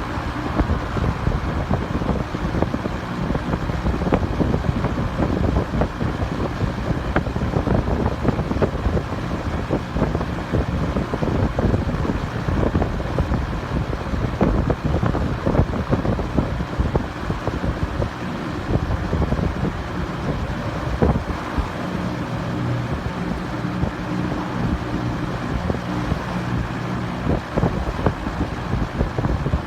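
A large 32-inch belt-driven portable exhaust fan running, a steady rush of moving air with heavy wind buffeting on the microphone and a faint motor hum underneath.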